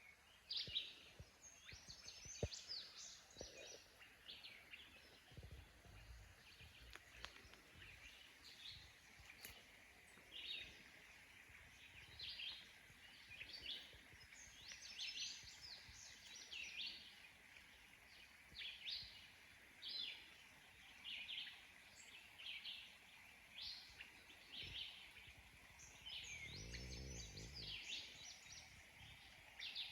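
Faint woodland ambience: short bird chirps repeated about once a second over a faint steady high hum. A brief low rumble comes near the end.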